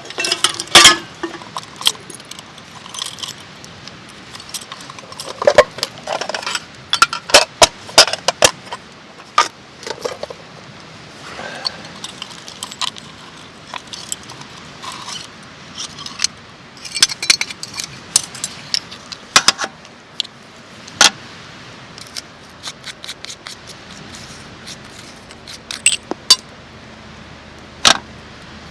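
Camp gear being handled: an irregular series of metallic clinks, clatters and scrapes mixed with rustling.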